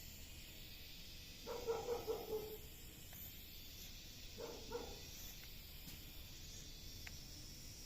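A dog barking: a quick run of several barks about a second and a half in, then two more barks about four and a half seconds in.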